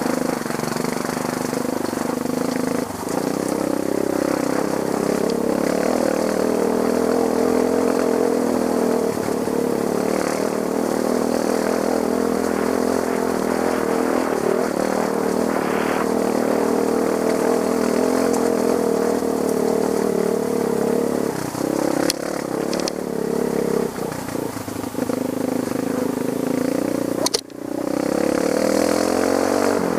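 Trail motorcycle engine running under varying throttle, its pitch rising and falling as it rides over rough ground, with a few brief knocks and rattles. The sound drops out sharply for a moment near the end.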